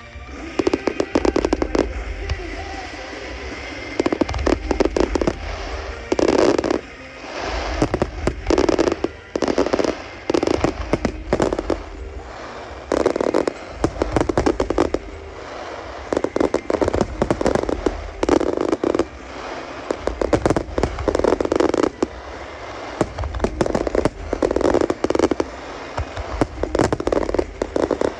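Fireworks display: a continuous run of sharp bangs and crackles, some in fast clusters, over a steady low rumble.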